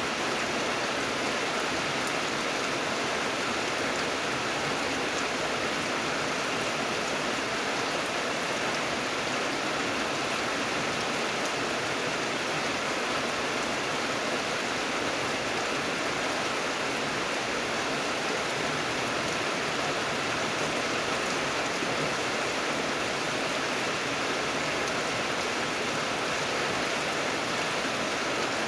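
Steady, even rain hiss with faint scattered drop ticks, unchanging throughout.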